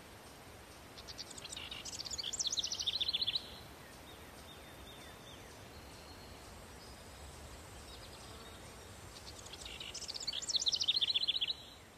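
A songbird singing twice, each song about two and a half seconds long: a run of high notes that quickens into a fast trill and stops abruptly. A steady hiss lies underneath.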